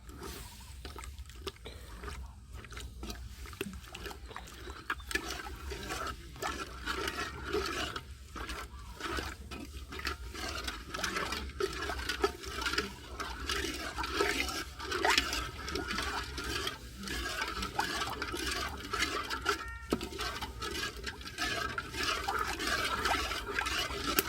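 Curry paste frying in hot oil in a pot: a steady, dense sizzle with crackling and bubbling.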